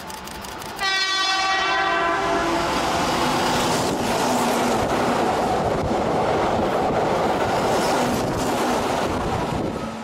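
A Keihan 6000-series electric train sounds its horn once for about a second and a half as an emergency warning blast, then the train passes close by with loud steady wheel and running noise that fades near the end.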